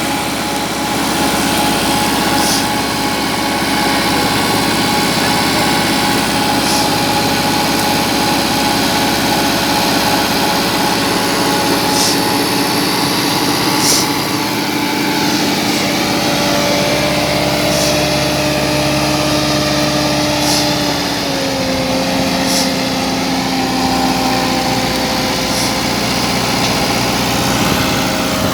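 Tractor engine running steadily, its pitch dropping slightly about three-quarters of the way through, with a few short high clicks now and then.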